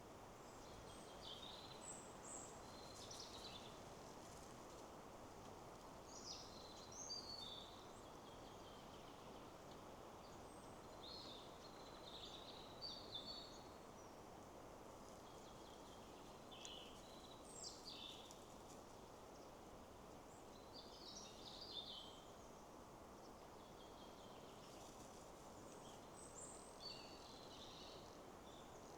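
Songbirds singing short chirping phrases every few seconds over a steady, quiet rush of wind in the trees.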